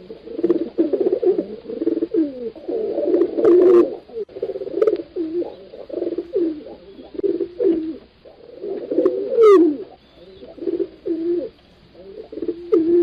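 Several pigeons cooing in overlapping, low, throaty calls that bend up and down in pitch, with barely a pause between them. A brief high rising whistle-like sweep cuts across about two-thirds of the way through.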